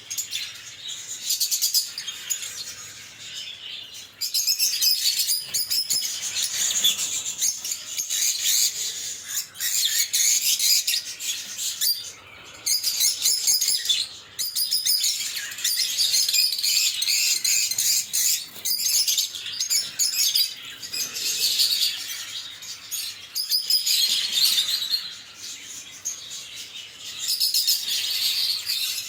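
Lovebird (Agapornis, a small African parrot) chirping: rapid, high-pitched calls in long runs broken by short pauses.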